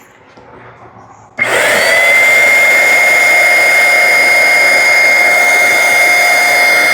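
Electric paint sprayer switched on about a second and a half in, its motor quickly rising in pitch and then running with a steady, loud high whine.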